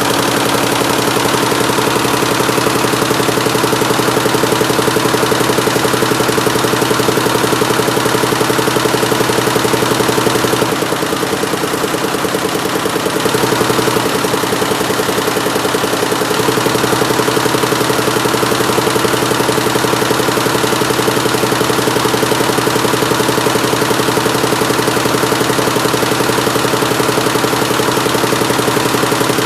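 Schiffli embroidery machine with 176 needles running steadily with a fast, even mechanical clatter. It softens and dulls for about two seconds around eleven seconds in, then picks back up.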